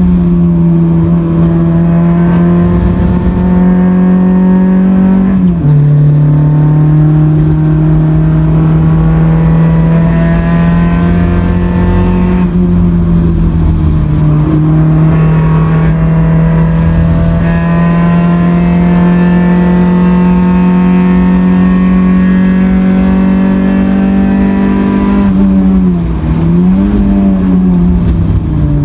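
Honda Accord CB7's four-cylinder engine heard from inside the cabin, pulling hard on track. The revs drop at an upshift about five seconds in, then climb slowly for a long stretch, dip and rise briefly near the end, and fall away as the car slows.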